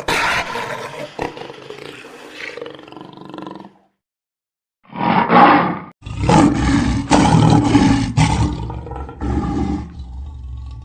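Lion roaring, heard as three spliced clips: a first roar that trails off after nearly four seconds, a short burst after a second of dead silence, then a longer stretch of roaring that fades toward the end.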